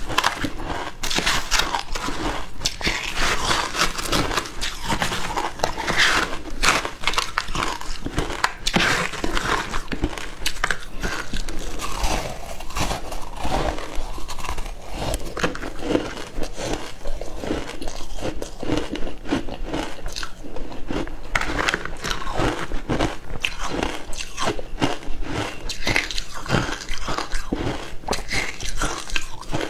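Close-up crunching and chewing of frozen matcha ice: a continuous run of sharp cracks as the ice is bitten and crushed between the teeth.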